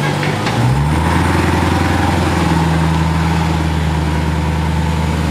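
Car engine running at low speed, its note shifting about a second in and then holding steady.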